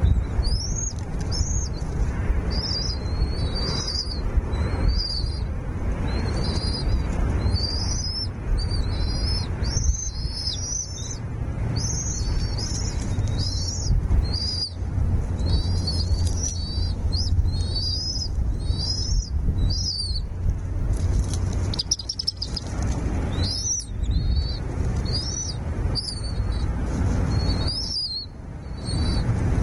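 Nestling birds chirping high and short, over and over, one or two calls a second: begging for food. A steady low rumble runs underneath, and the chirping thins out for a couple of seconds past the middle.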